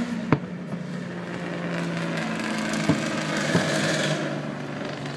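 Distant aerial fireworks shells bursting: three sharp reports, one about a third of a second in and two more close together around three seconds in. Beneath them run a steady low engine hum and a swelling hiss of passing traffic.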